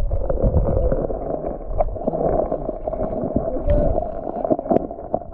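Creek water sloshing and gurgling, muffled, with scattered small knocks and clicks.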